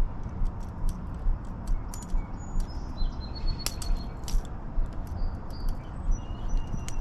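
Low rumbling noise that swells in soft pulses about twice a second, with scattered small clicks and a few short, high bird chirps.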